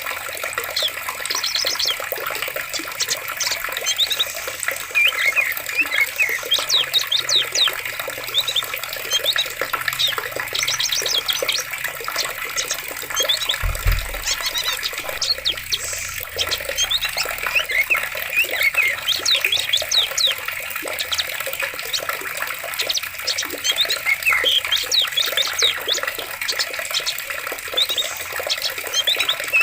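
Running water splashing steadily in a forest, with many small birds chirping in quick short calls throughout. A brief low thump sounds about halfway through.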